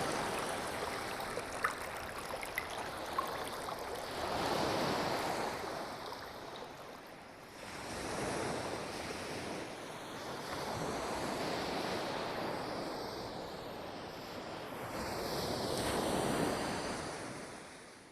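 Sea waves washing in and drawing back, swelling about every four seconds, then fading out near the end.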